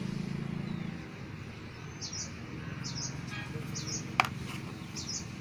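A small bird chirping over and over, short high chirps about once a second, over a low steady hum. One sharp click sounds about four seconds in.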